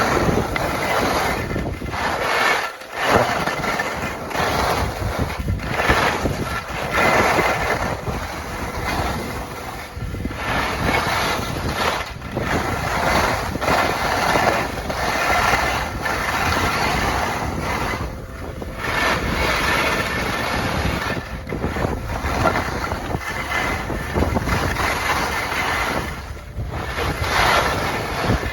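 Strong gusting wind blasting the microphone, a loud rushing noise that swells and drops every second or two.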